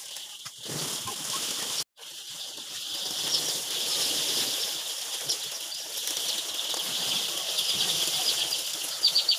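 A flock of layer hens making a continuous busy din of calls and wing flaps, with a brief cut-out about two seconds in.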